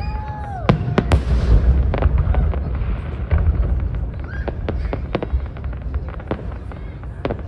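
Aerial fireworks display: a rapid, irregular string of sharp bangs and crackles over a continuous low rumble, with a few falling whistles near the start.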